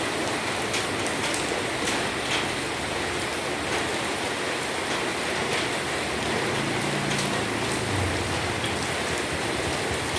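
Steady rain falling, with individual drops ticking sharply now and then. A low hum comes and goes under it, most noticeable about two-thirds of the way through.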